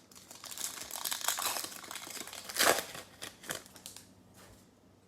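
Crinkling of a plastic trading-card pack wrapper being handled and torn open, a dense crackle lasting about four seconds with its loudest rustle near the middle.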